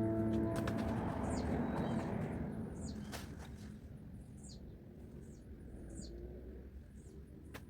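Small birds chirping: many short, high calls that sweep downward, repeated throughout. Beneath them, a rushing noise fades away over the first few seconds, and there are a few sharp clicks.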